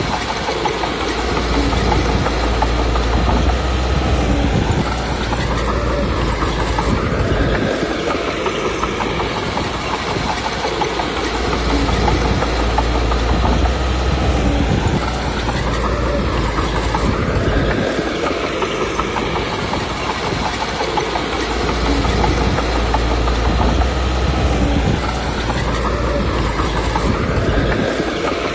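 Komatsu D21P bulldozer's diesel engine and steel tracks working in a repeating cycle: three stretches of heavy low rumble, about ten seconds apart, with the engine pitch rising and falling between them.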